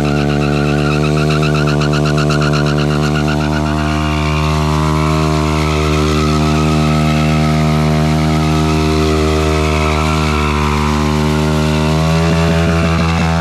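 Honda Grom's small single-cylinder four-stroke engine held at high, steady revs, its note wavering slightly at first and then holding; near the end the note shifts and stutters briefly.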